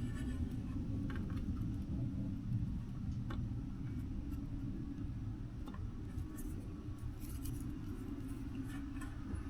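Scattered light clicks and ticks of small tools and a circuit board being handled, over a steady low rumble.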